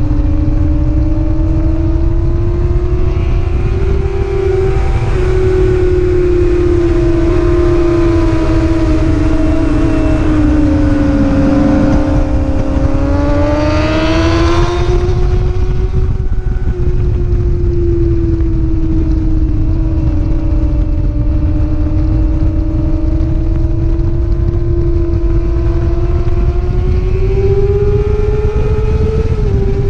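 A racing motorcycle's engine runs hard at high revs, its pitch rising and falling gently as it moves through the gears and corners, over a constant low rumble. About halfway through, a second, higher engine note climbs briefly and fades.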